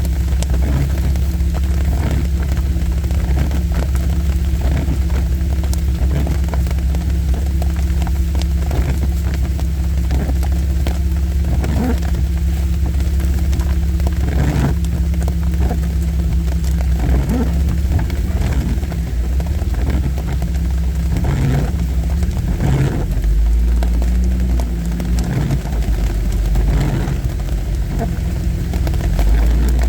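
Vehicle engine running steadily at trail speed, heard from inside the cab, with rain hitting the roof and glass as many small sharp clicks. The engine gets louder about two-thirds of the way through.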